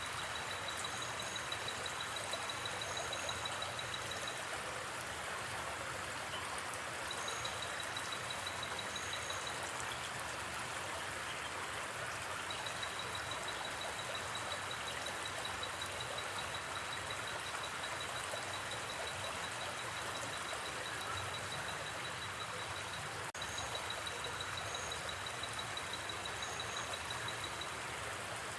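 A river flowing steadily, with a high, fast-pulsing night insect trill that comes and goes in long stretches and short paired chirps above it.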